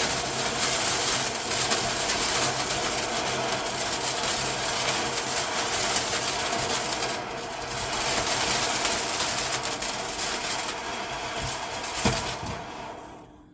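Ember Fountain firework burning with a steady, dense hiss that fades out shortly before the end as the fountain burns out.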